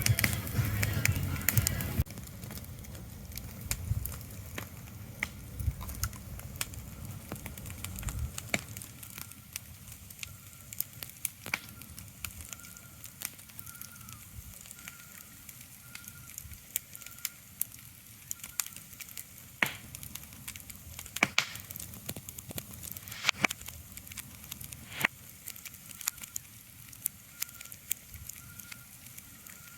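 Ambience of irregular crackles and sharp pops over a soft hiss, with a faint short high tone repeating about once a second in the second half. A louder low rumble at the start dies away within the first few seconds.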